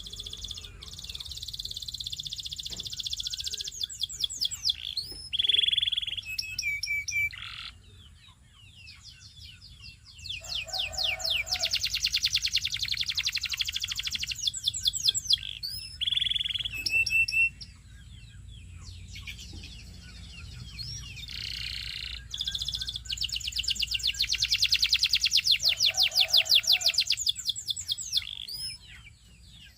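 Belgian singing canary singing: long, very fast trills and rolls in phrases several seconds long, with short held notes between them and brief pauses between phrases.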